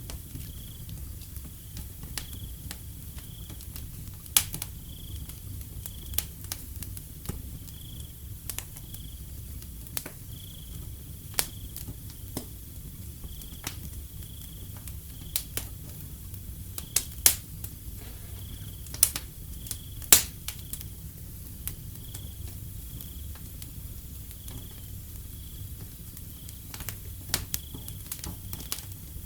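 Wood fire crackling with irregular sharp pops over a low steady rumble, while a cricket chirps in short high chirps repeating about once a second.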